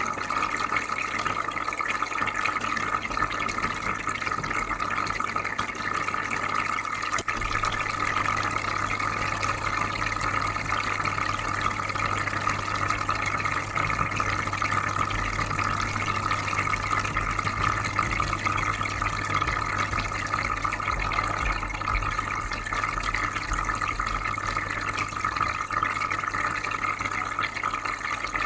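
Aquarium filter running: steady bubbling, trickling water over a low, even hum.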